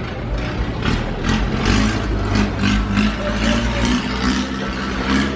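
An engine running at a steady idle, with a low hum and some clatter and rattling over it.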